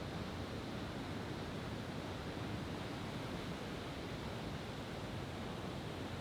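Steady, even outdoor background noise with no fireworks bursts.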